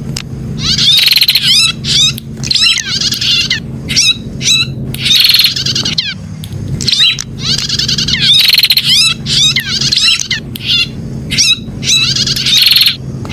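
Prenjak, a prinia, singing: repeated bursts of fast, sharp, trilled notes, each about a second long with short gaps between, over a low steady hum.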